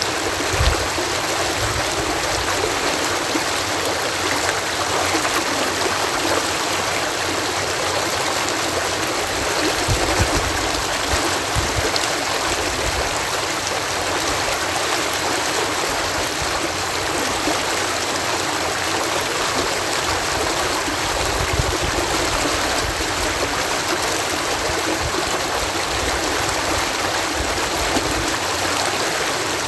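Water pouring over a canal lock in a steady, even rush, with occasional low thuds and gurgles under it.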